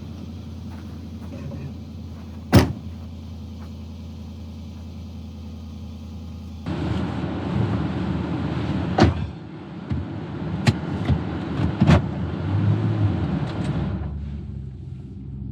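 SUV driving, with steady engine and road noise and a few sharp knocks. About a third of the way in it gets louder and rougher for several seconds, with more knocks, then eases off near the end.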